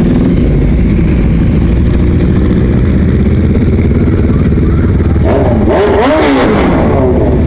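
Steady low rumble of car engines cruising along the street. About five seconds in, a short sound wavers up and down in pitch over the rumble for a second or two.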